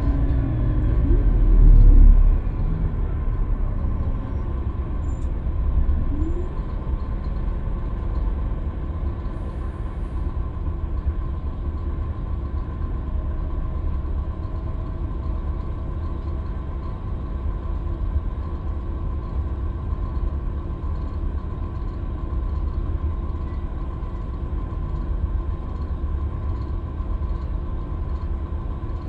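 Scania K320UB city bus under way: a steady low rumble of engine and road with a faint steady whine. The engine note swells to its loudest about two seconds in, with short rises and falls in pitch over the first few seconds, then settles into steady running.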